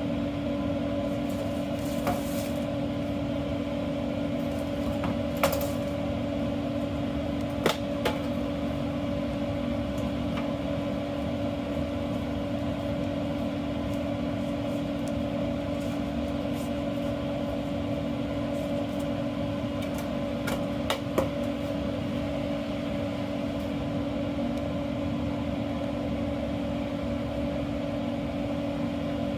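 Steady machine hum from kitchen equipment, with a few light clinks and knocks of utensils or dishes.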